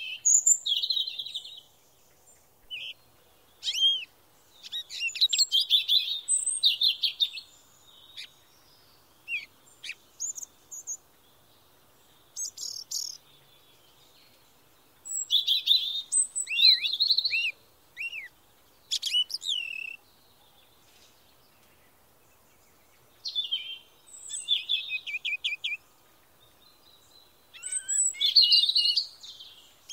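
Small birds singing: bouts of high chirps and quick trills every few seconds, with quiet gaps between.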